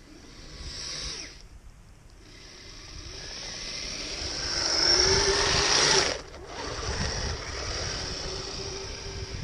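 Kyosho Blizzard RC snowcat's motor and metal tracks running: a short burst in the first second, then a whine that builds for several seconds and cuts off suddenly about six seconds in, after which it runs on steadily at a lower pitch.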